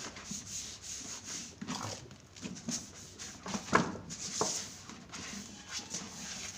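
Scattered soft knocks and rubbing of plastic fridge shelf mats, trays and containers being handled and set onto the shelves, with a few sharper taps.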